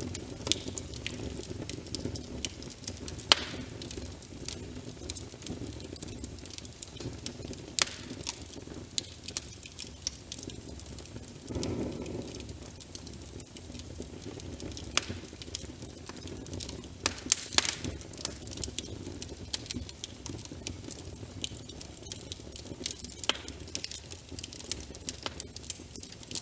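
Wood fire crackling, with irregular sharp pops every few seconds, over a steady patter of rain. About halfway through there is a brief louder rush.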